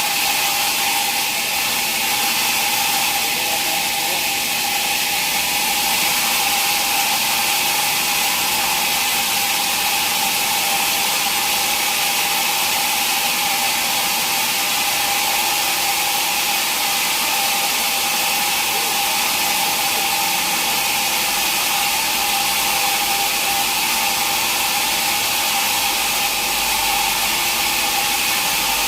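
Sawmill saw cutting mahogany, running steadily with a constant whine over a loud hiss.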